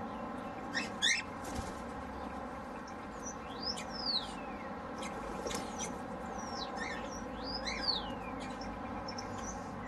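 Birds chirping and calling: a few short sharp chirps about a second in, then long calls that sweep up and slide down in pitch around four and eight seconds in, over a steady background hum.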